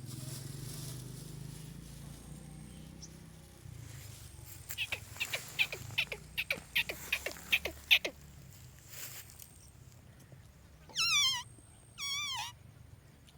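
Parrot calling: a rapid run of short, sharp chirps and clicks, then near the end two loud whistles, one sliding down in pitch and one wavering.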